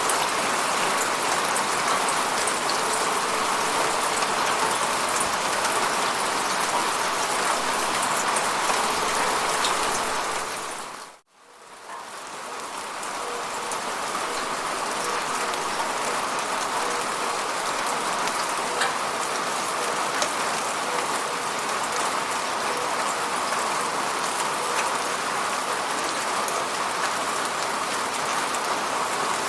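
Steady, even rain falling. About a third of the way in it fades quickly to silence and then swells back up over a couple of seconds, as at a loop or edit point.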